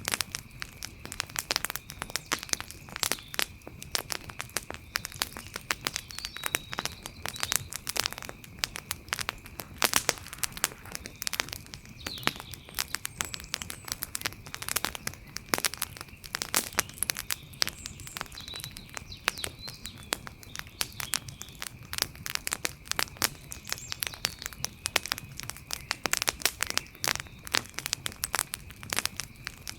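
Outdoor wood fire crackling, with dense, irregular sharp snaps and pops. A faint steady high-pitched note and a few faint chirps sit in the background.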